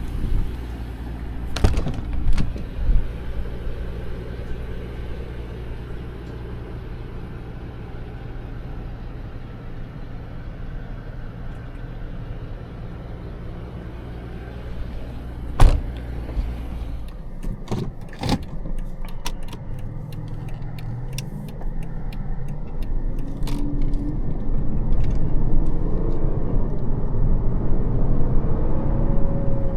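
Mercedes CL600's 5.5-litre twin-turbo V12 (M275) idling steadily, with a few sharp clicks and knocks. After about twenty seconds the engine pulls away and accelerates, getting louder, its pitch climbing in steps as it goes up through the gears.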